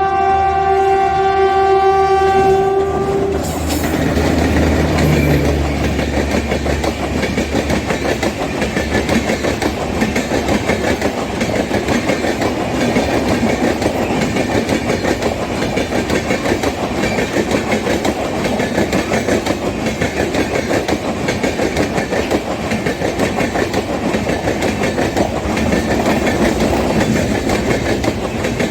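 Express train passing through a station at speed without stopping. The locomotive's horn holds one long note until about three seconds in, then the coaches rush past with continuous clickety-clack of wheels over rail joints.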